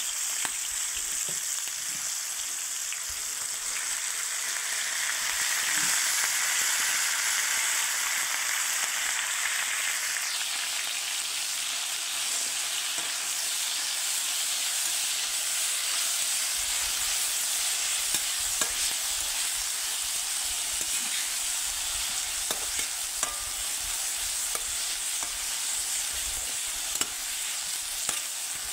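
Chopped onions, carrots and leafy greens sizzling steadily in hot oil in a wok, stirred with a metal spoon that clicks and scrapes against the pan now and then.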